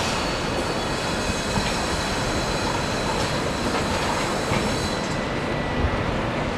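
A train running on rails, a steady noise with faint high tones.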